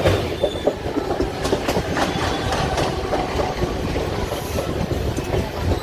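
Mumbai suburban electric local train running at speed, heard from inside the coach: a steady rumble with wheels clattering over the rail joints.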